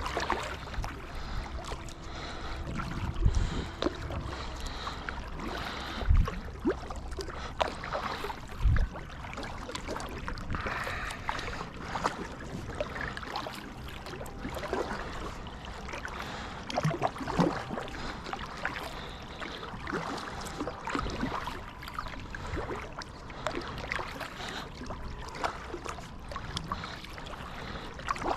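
Small boat being paddled on a river: paddle strokes splashing and dripping in the water, with scattered small knocks and three heavy low thumps in the first nine seconds.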